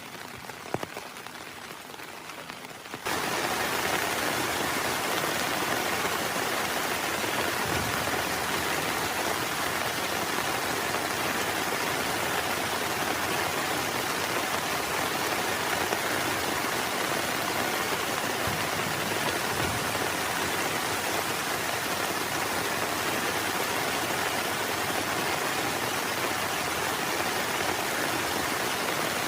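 Rain falling, lighter for the first few seconds with a single sharp tap about a second in, then heavy rain that suddenly comes in much louder and stays steady.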